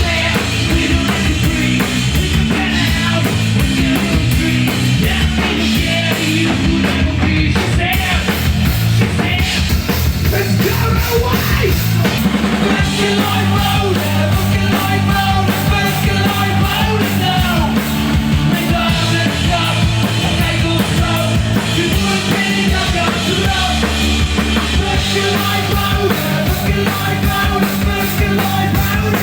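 Live rock'n'roll band playing loud, driving music with a drum kit.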